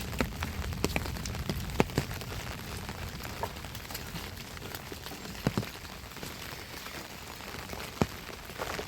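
Steady rain falling, with scattered sharp drops striking close by, a few of them louder than the rest.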